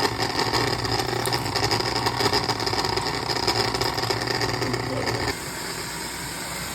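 Motorised drain snake running steadily, its motor humming and the cable rattling in the drain line while it cuts through a grease clog; it stops abruptly about five seconds in, leaving a quieter steady hiss.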